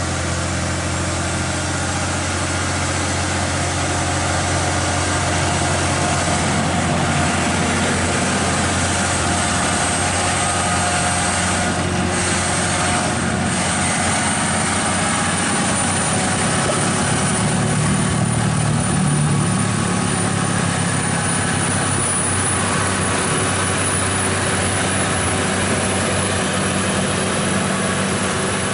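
Heavy haul truck diesel engine running steadily under load, with a high whine that slowly rises in pitch.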